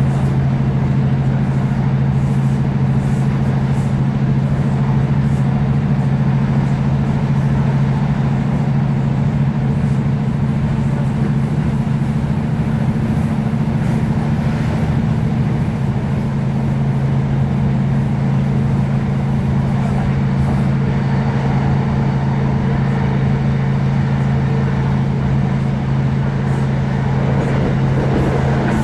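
Class 156 Super Sprinter diesel multiple unit under way, its underfloor diesel engine giving a steady low drone over the running noise.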